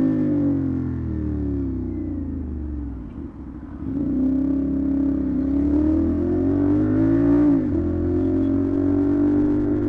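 CFMoto 450SR parallel-twin engine through an SC Project exhaust, riding: the revs fall away for about three seconds and dip briefly, then climb to a gear change about seven and a half seconds in, and pull on steadily in the next gear.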